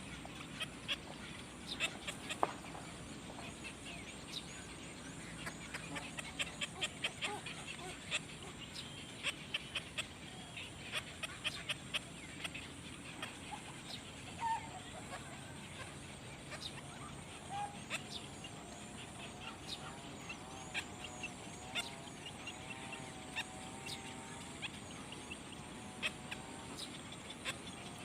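Nestling birds cheeping: short, sharp calls, some in quick runs, others scattered.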